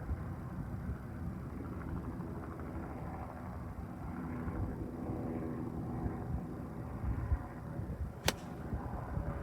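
A golf iron strikes a ball once with a single sharp click about eight seconds in, over a steady low engine-like rumble in the background.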